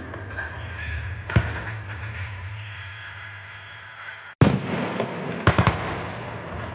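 Fireworks shells bursting: a bang a little over a second in, a louder bang about four and a half seconds in, then a quick run of three sharp pops, over a steady low hum.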